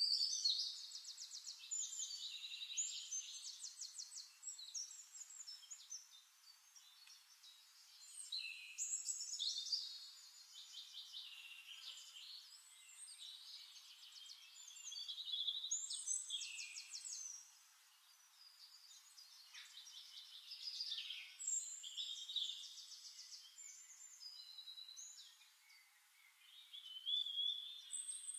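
Songbird singing in about five bursts of fast trills and high chirps, each a few seconds long with gaps between them.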